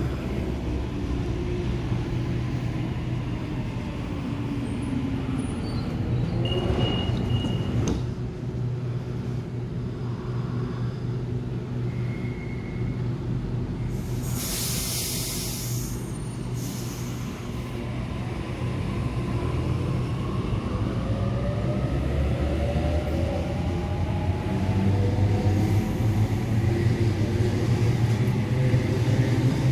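Electric suburban passenger train at a station, rumbling steadily. A short burst of air hiss comes about halfway through, and near the end the traction motors whine upward in pitch as the train pulls away.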